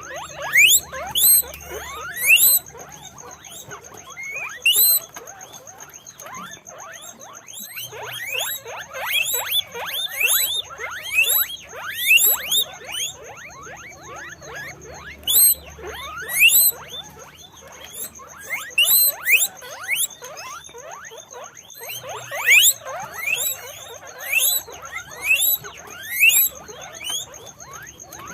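Several guinea pigs squeaking: many short, high squeaks, each falling in pitch, overlapping in busy runs with brief lulls between.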